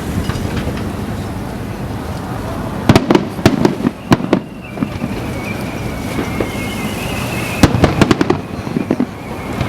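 Aerial fireworks shells bursting: volleys of sharp bangs about three seconds in and again near the end, over a continuous low rumble of further bursts. In between, a thin high whistle is held and slowly falls for about three seconds.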